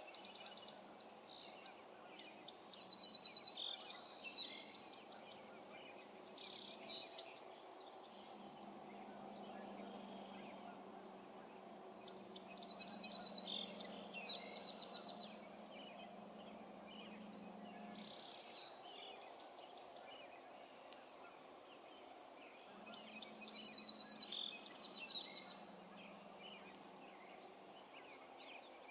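A songbird sings the same short song three times, about ten seconds apart, each opening with a quick high trill followed by a few scattered notes, over a faint steady low hum.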